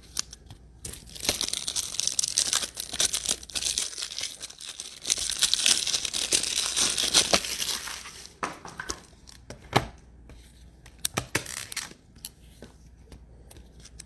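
Plastic trading-card pack wrapper being torn open and crinkled, a dense crackling tear for several seconds, followed by scattered crinkles and clicks as the wrapper and cards are handled.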